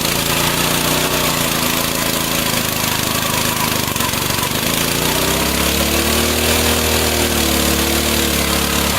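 Mini bike's small engine held at high revs for a burnout, with a steady hiss alongside; the engine pitch climbs about halfway through and eases back down near the end.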